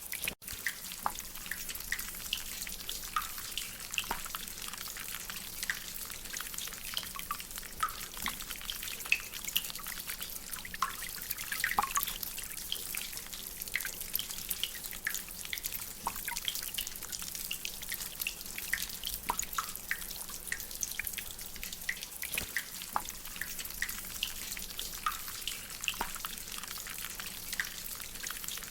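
Rainwater dripping steadily, many irregular drips over a soft continuous hiss of rain. The sound cuts out for an instant just after the start.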